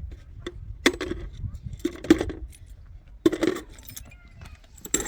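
Small hard objects clinking and rattling as they are handled, in four or five sharp clatters about a second apart over a low steady rumble.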